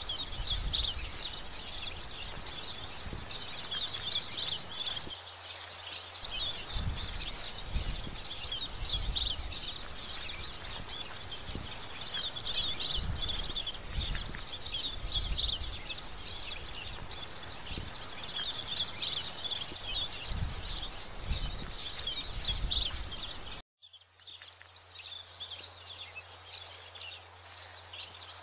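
Many birds chirping densely and continuously, over a low rumble of wind on the microphone. Near the end the sound drops out for a moment, then returns with a steady low hum in place of the rumble.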